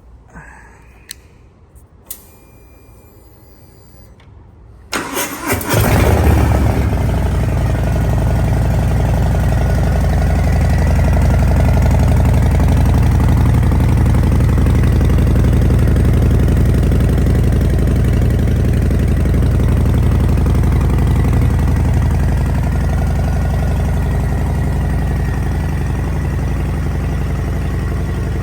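Cold start of a Harley-Davidson Fat Bob's V-twin through Vance & Hines Short Shots exhaust: a couple of small clicks, then a short crank about five seconds in, and the engine catches and settles into a loud, steady idle.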